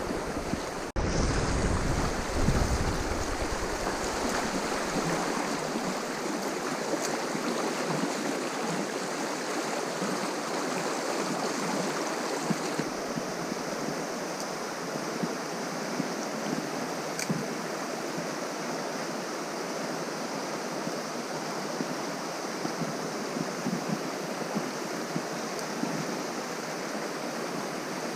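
River water rushing over rocks in a steady, even flow, cutting out briefly about a second in.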